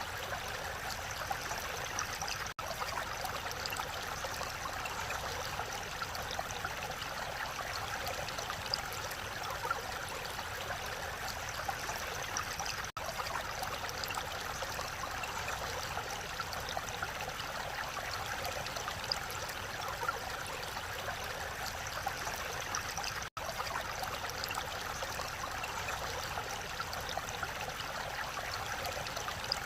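Mountain stream rushing steadily over rocks in a valley, an even splashing wash of water, with three very brief dropouts.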